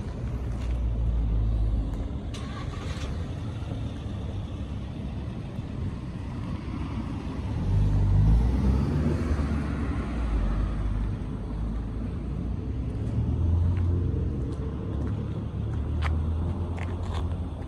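An engine runs with a low rumble. About eight seconds in it rises in pitch and gets louder, as in a rev, then settles.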